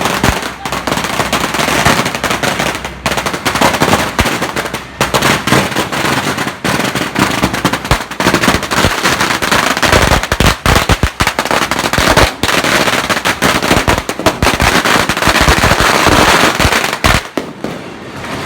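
Strings of firecrackers going off in a dense, rapid crackle of sharp bangs, thinning out shortly before the end.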